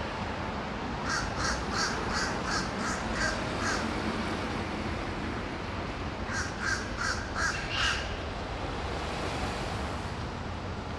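A bird calling in two rapid runs of short repeated calls, about three a second: a run of about eight starting about a second in, then after a pause a run of about six.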